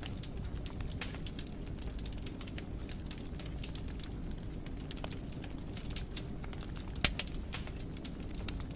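Fire in a fireplace crackling, with many small pops over a low, steady rumble of flame; the sharpest pop comes about seven seconds in.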